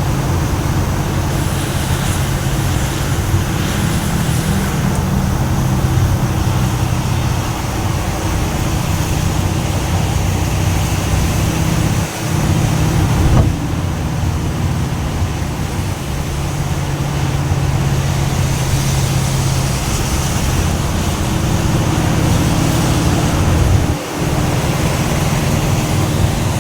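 Steady motor vehicle noise: a low engine hum under a constant wash of road noise, with two brief drops in level about halfway through and near the end.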